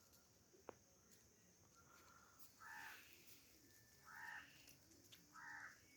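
A bird calling faintly: three short harsh calls about a second apart.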